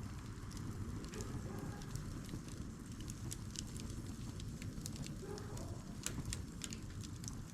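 Campfire of wood stacked in a log-cabin (igeta) arrangement, burning with scattered crackles and pops over a low steady rumble.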